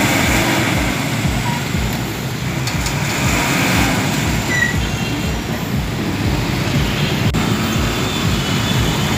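Heavy vehicle engine running with a steady, loud low rumble, mixed with road traffic noise.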